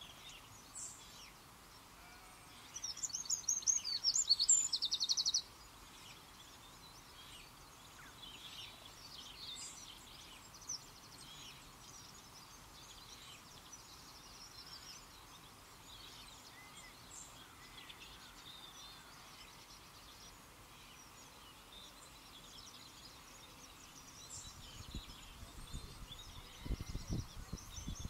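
Small birds calling and singing in short scattered phrases over a faint steady outdoor hiss, with one loud, rapid trilling song a few seconds in. Near the end a low rumble comes in.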